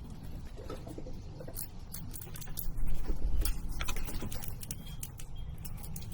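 Scattered light taps and clicks, with a low rumble that swells about three seconds in.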